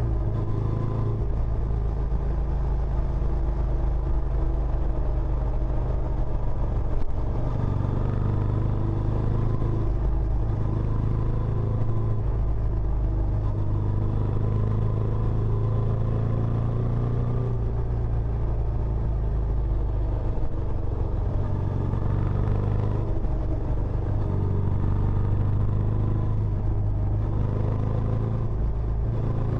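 Benelli Imperiale 400's single-cylinder engine running steadily through its stock exhaust, a low, even exhaust note with only small changes in pitch.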